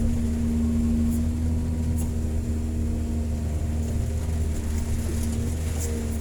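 Hydraulic excavator's diesel engine running steadily, a constant low rumble with a steady hum, with a few faint ticks over it.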